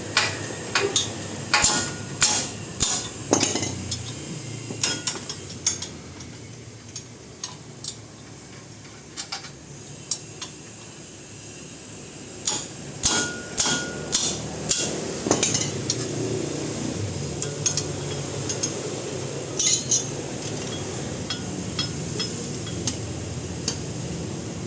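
Hammer blows on metal, a sharp ringing strike a little under twice a second. There is one run of about six blows at the start and another a little past the middle, with scattered lighter clinks of metal between them.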